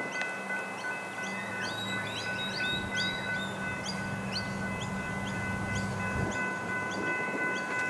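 Birds chirping in quick, repeated short calls over the steady hum and whine of an electric suburban train.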